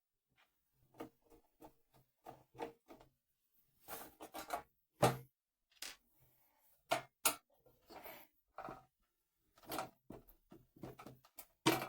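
Phillips screwdriver working at the casing screws of a sandwich toaster: irregular clicks, scrapes and knocks of the tool on the screws and the metal housing, the loudest about five and seven seconds in.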